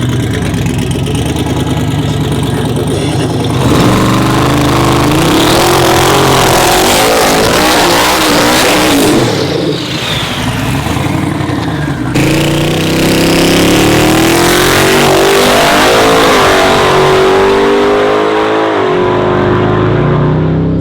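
Twin-turbo drag truck engine accelerating hard on a pass, its pitch climbing. It breaks off and starts climbing again about twelve seconds in, like a gear change.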